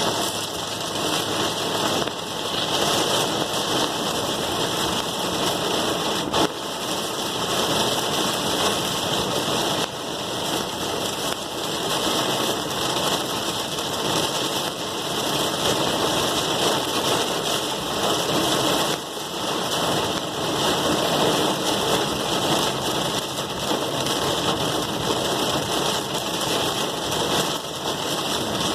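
Steady rain falling, a dense even hiss with no let-up, and a single sharp click about six seconds in.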